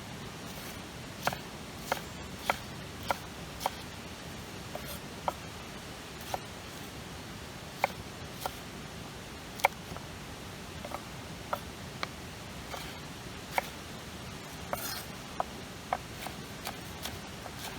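Irregular sharp clicks and light taps, one every half second to two seconds, over a steady hiss.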